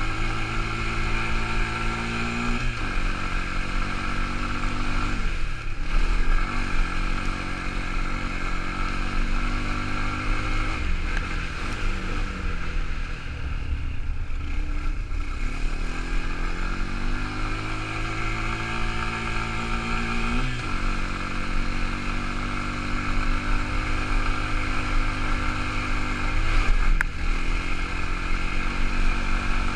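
Quad bike engine running under load, its pitch climbing slowly and then falling back sharply about five times as the throttle opens and closes.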